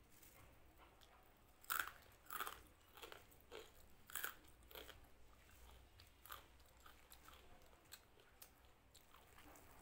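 A person eating a handful of rice mixed with crispy shoestring potato fry: several sharp crunches at a steady pace between about two and five seconds in, then softer, scattered chewing.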